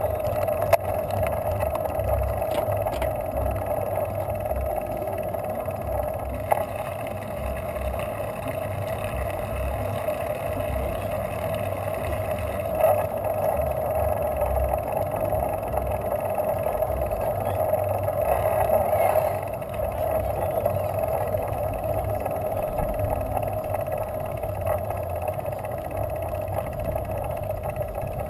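Wind rumbling on the microphone and road noise of a bicycle ride, with a steady mid-pitched hum and a few light clicks.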